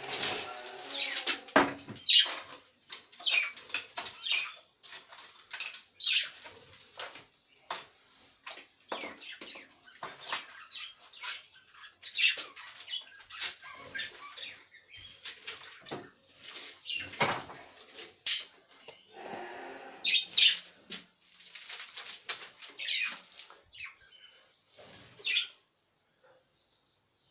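Pet budgerigars chirping in short, irregular bursts, with flutters of wings.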